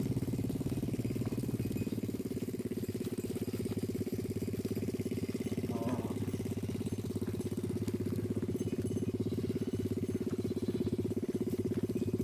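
A small engine running steadily at a constant speed, with an even, rapid pulse.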